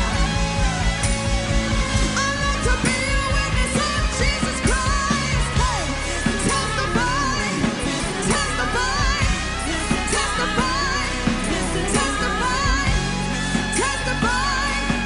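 Live worship band music with singing: a wavering sung voice over drums, bass and other instruments.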